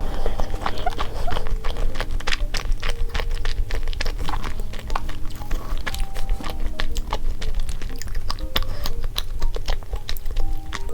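Close-miked eating of a chocolate crepe cake: many small, quick mouth and utensil clicks, over light background music with held notes.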